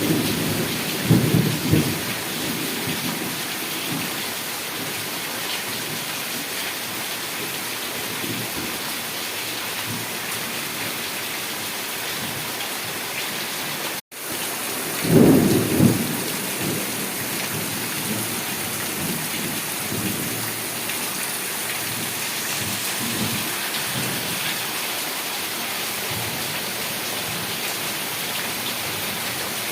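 Heavy rain falling steadily, with low rumbles of thunder near the start and again about halfway through. The sound cuts out for an instant just before the second rumble.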